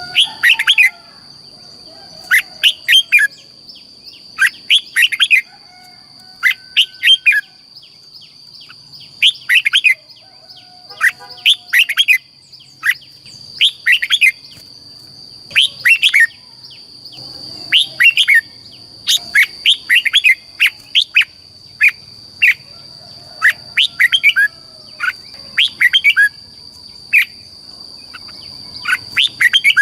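Red-whiskered bulbul singing: short, loud phrases of quick chirping notes repeated every second or two, over a steady high-pitched whine.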